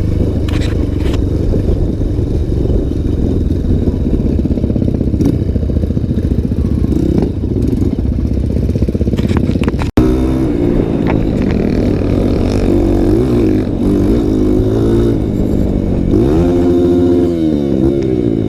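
Dirt bike engine running on a trail ride, revs rising and falling as the bike is ridden. The sound drops out for an instant about halfway through, and near the end the engine note climbs and then falls away.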